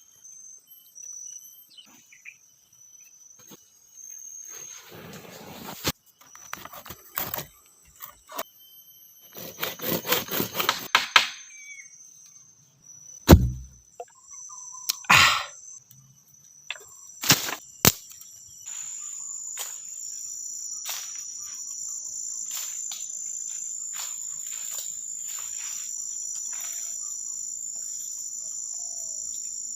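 Tropical forest insects buzzing steadily at a high pitch, filling in more fully over the second half. In the first half, irregular rustling, knocking and a heavy thump stand out above it.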